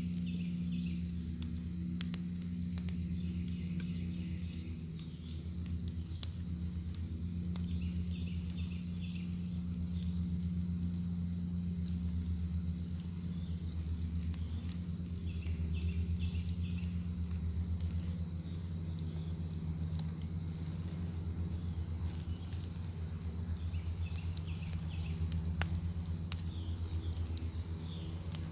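Bacon sizzling over a crackling wood fire: a steady hiss broken by scattered sharp pops. Crickets chirp alongside, over a steady low hum.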